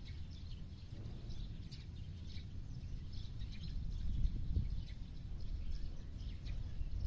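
Several birds chirping and calling in short, high notes, scattered and overlapping, over a steady low rumble.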